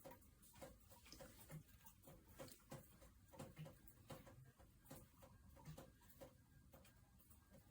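Near silence: room tone with faint, irregular ticks.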